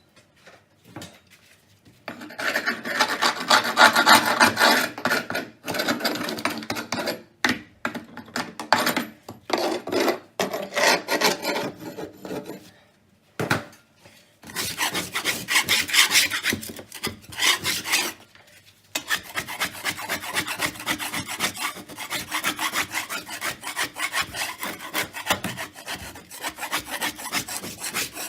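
Rapid back-and-forth scrubbing or rasping strokes against a hard surface, in long bouts broken by a few short pauses.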